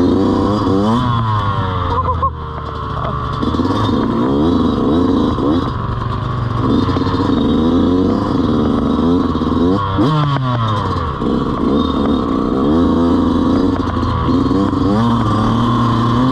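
Dirt bike engine being ridden on a trail, its revs rising and falling several times, with a sharp drop and pick-up about ten seconds in.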